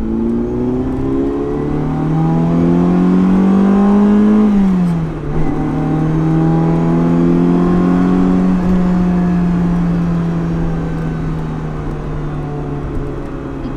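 Ferrari 308's V8 engine accelerating, the revs climbing for a few seconds, then dropping at a gear change about four and a half seconds in. After that it pulls steadily, the revs slowly falling.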